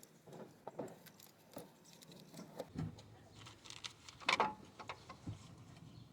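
Small metal bolts and camshaft caps being unscrewed by hand and set down, giving irregular light metallic clicks and clinks, with a louder clatter a little past four seconds in.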